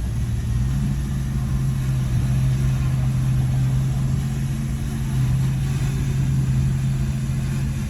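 Heavy diesel engine of an earthmoving machine running steadily; its note rises slightly under a second in and then holds.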